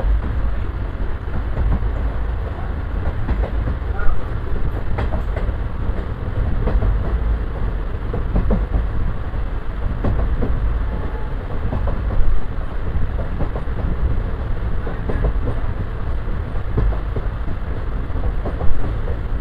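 Passenger train coach rolling along the line: a steady, heavy rumble of wheels on rail, with scattered clicks and a few sharp knocks from the track.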